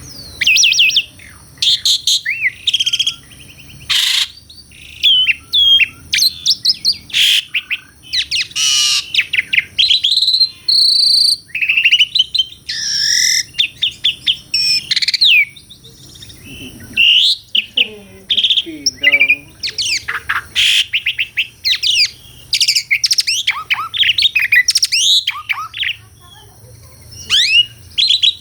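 Asian pied starling (jalak suren) singing vigorously: a continuous, varied song of quick sweeping whistles, rapid slurred notes and harsh chattering phrases, with short pauses between bursts and some lower, rougher notes near the middle.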